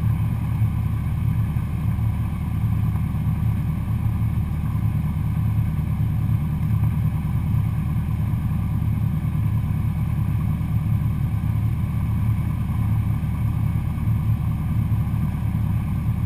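Cessna 172SP Skyhawk's four-cylinder Lycoming engine and propeller running steadily, a constant low drone with no change in pitch.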